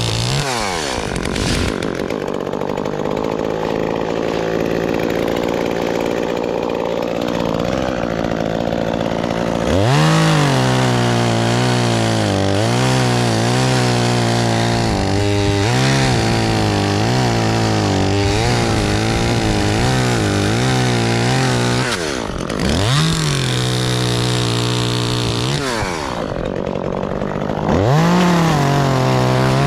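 Chainsaw cutting oak limbs: the engine runs softer at first, revs up about ten seconds in and holds high with its pitch wavering as it works in the cut, then drops and re-revs twice near the end.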